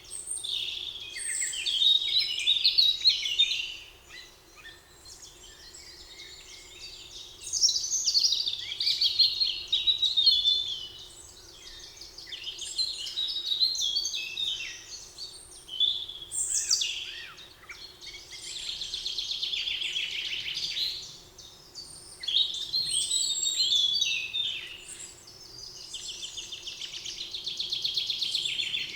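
Several songbirds singing in overlapping phrases of a few seconds each, with quick chirps and trills. A faint steady hum sits underneath.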